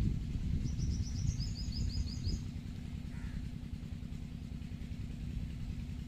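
A steady low outdoor rumble, with a small bird giving a rapid series of high chirps from about half a second to two and a half seconds in, and a fainter call a little later.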